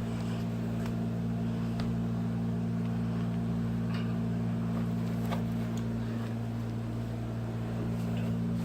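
Steady low mechanical hum, like a motor or fan running, with a few faint light clicks.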